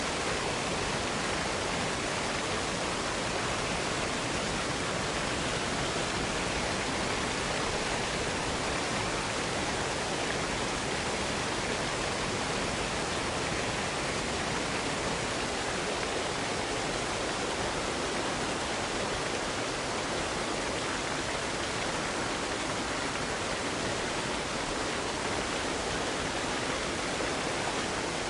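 Waterfall cascade: a steady, even rush of falling water.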